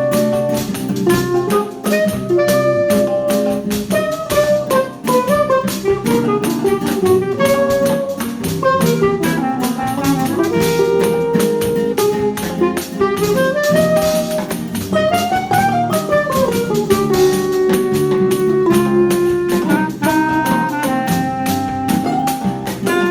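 A choro ensemble playing an instrumental piece: a melody line moving between held notes, sliding in pitch a couple of times, over a steady chordal accompaniment.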